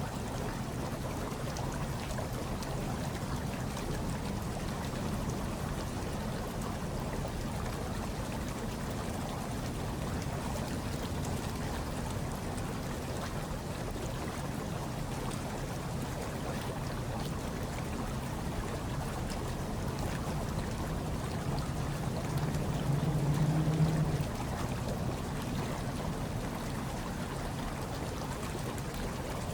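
Hot tub water bubbling and churning steadily, with a low hum underneath that swells briefly about three-quarters of the way through.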